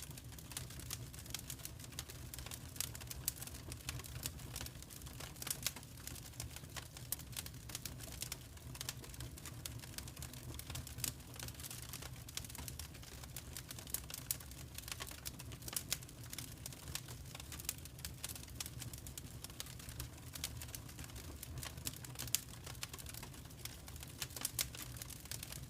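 Wood fire crackling in a fireplace: irregular sharp snaps and ticks over a low steady rumble.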